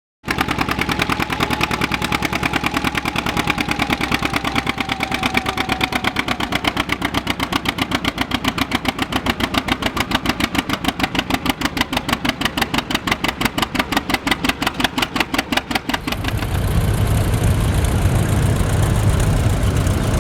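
Two-cylinder John Deere tractor engine running with an even, rhythmic popping exhaust beat. Near the end it gives way to a steadier low engine rumble without distinct pops.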